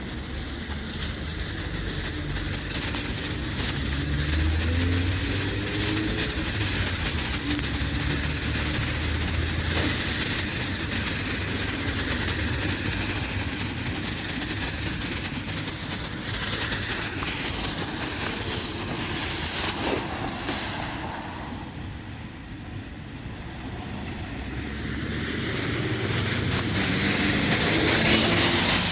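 Vehicles passing: engine hum with tyre and road noise that swells and fades, dipping about three-quarters of the way through and building again toward the end.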